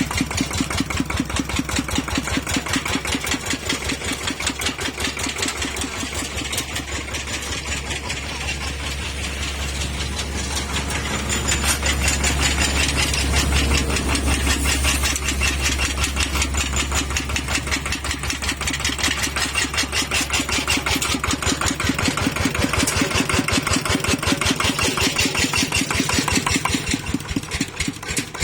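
Kubota ET95 walking tractor's single-cylinder diesel engine running steadily, its firing pulses heard as a fast even chugging. The seller calls the engine tight and in good condition.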